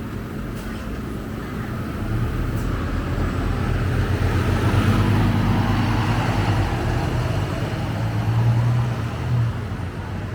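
Scania K250UB bus engine running with a steady low hum over road noise, growing louder about two seconds in and easing off near the end.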